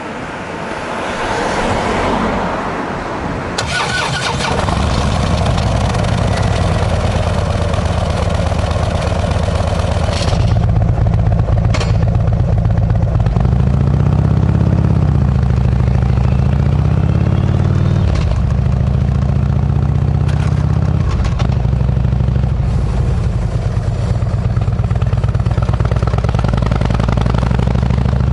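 Harley-Davidson V-twin fitted with a Kesstech aftermarket exhaust, starting up and then running with a deep, steady exhaust note. The revs rise and fall a couple of times about halfway through.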